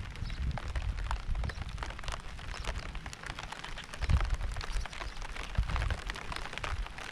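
Rain falling, heard as a dense, irregular scatter of individual drop hits, with occasional low, dull thuds or rumbles under it, the strongest about four seconds in.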